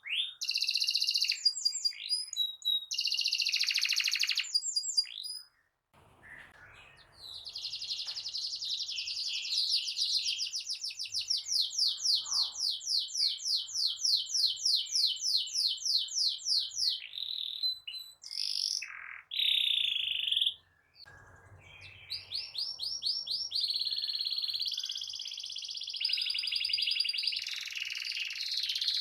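Domestic canary singing nonstop in rapid rolling trills and sweeping phrases, with a long, even, fast trill run through the middle and two brief pauses.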